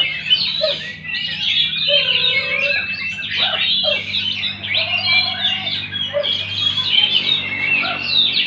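Many caged songbirds singing at once in competition: a dense chorus of overlapping chirps, whistles and trills.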